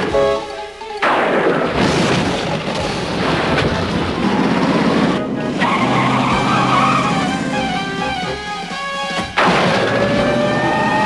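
Cartoon soundtrack music with sudden noisy rushing sound effects, one starting about a second in and another near the end.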